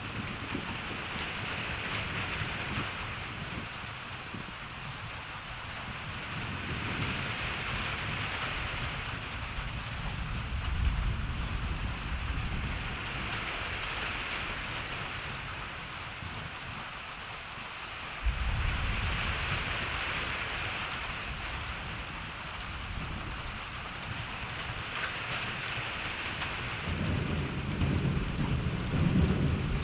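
Thunderstorm: steady rain hissing, swelling and easing every few seconds, with low rolling thunder. A sudden clap comes in about two-thirds of the way through and rumbles on, and another rumble builds near the end.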